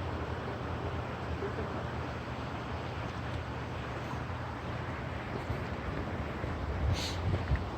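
A steady low engine hum under a constant hiss, with a brief higher sound about seven seconds in.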